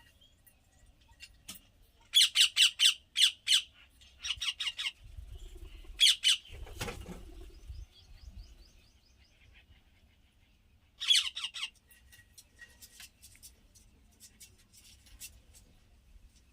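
Parrot squawking in harsh, loud bursts: a quick run of several calls about two seconds in, more around four and six seconds, and another burst about eleven seconds in.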